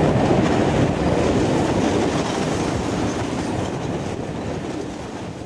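Tito's Blue Train running along the track, a steady rumble and clatter of wheels and carriages heard from aboard, growing gradually quieter toward the end.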